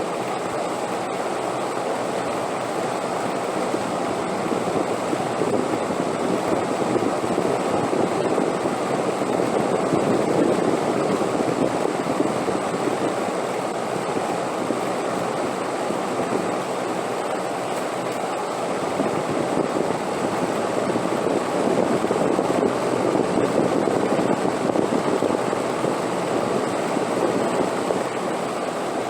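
Wind blowing steadily, rising and easing in slow swells, louder about a third of the way in and again past three quarters, with a faint steady high tone above it.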